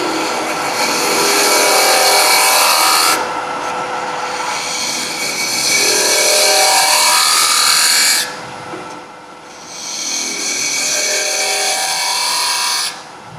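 Turning tool cutting into spinning wood on a wood lathe, in three passes of a few seconds each, with a whine that shifts in pitch during the cuts. The lathe runs on with a steady hum between passes.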